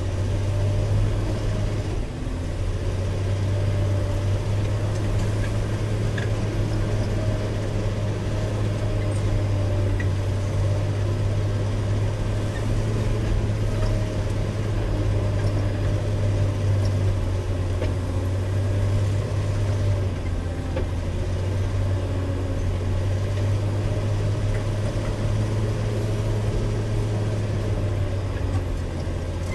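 Caterpillar 120K motor grader's diesel engine running steadily, a strong low drone with no let-up.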